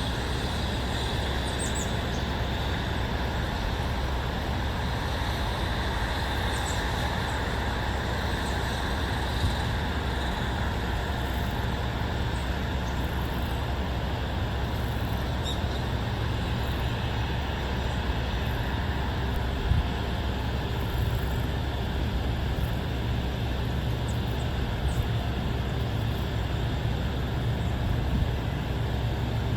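Steady ambient rumble of distant road traffic, with a few faint high chirps now and then.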